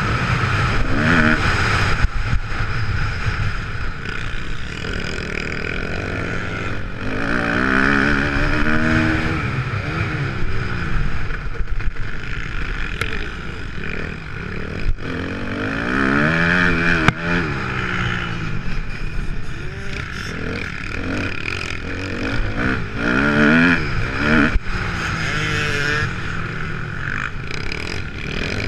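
A Kawasaki KX250F's four-stroke single-cylinder motocross engine revving up and falling back again and again as the bike accelerates and shifts through the track. Occasional sharp knocks are heard over it.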